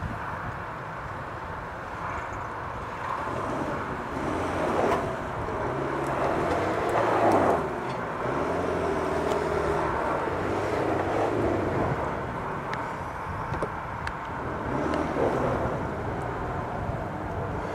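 Off-road 4x4 engines revving as the vehicles work through mud and across a steep shale slope. The engine note rises and falls with the throttle and is loudest through the middle.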